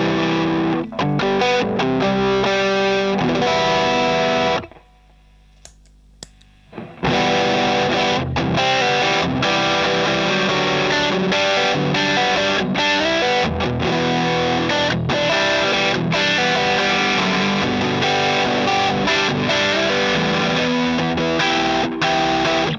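Electric guitar played through an overdrive pedal, distorted chords and notes. The playing stops for about two seconds, about five seconds in, with two faint clicks, then starts again.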